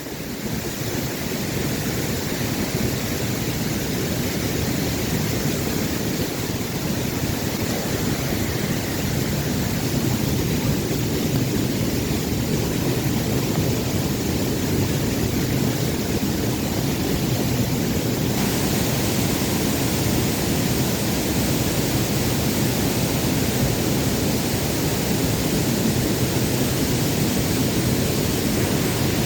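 Waterfall's falling water rushing, a steady, even noise.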